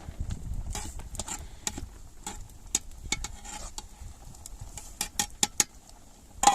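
A utensil stirring and scraping in a cooking pot: a run of irregular clicks and scrapes, with one louder clink near the end.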